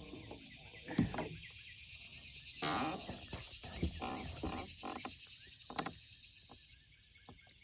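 Lakeside ambience: a steady high insect hiss under scattered clicks and knocks, with a brief rush of noise about three seconds in, from a hooked bass being handled in a kayak.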